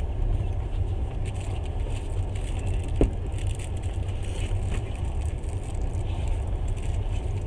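Passenger train running: a steady low rumble of wheels on the track heard from inside the carriage, with a single sharp knock about three seconds in.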